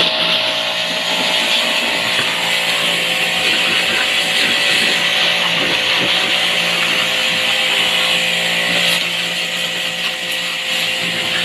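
A power tool running steadily without a break, a loud hissing grind that eases slightly near the end.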